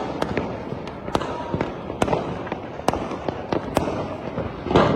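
Diwali fireworks and firecrackers going off all around: a steady crackle of distant bangs with sharp cracks several times a second, and a louder burst near the end.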